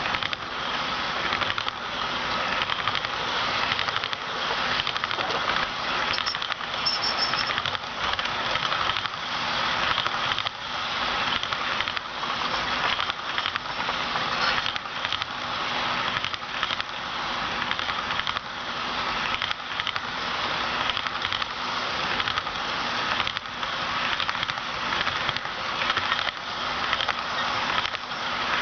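HO scale model train rolling along its track: a steady metallic rattle of wheels on rail, with frequent small clicks over rail joints and a faint motor hum underneath.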